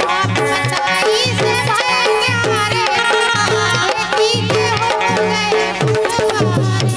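Indian folk devotional music: a tabla-type hand drum keeps a steady rhythm under a wavering, ornamented melody.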